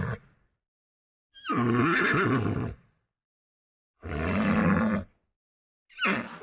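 Horse neighing: three separate calls, each about a second or more long, with complete silence between them.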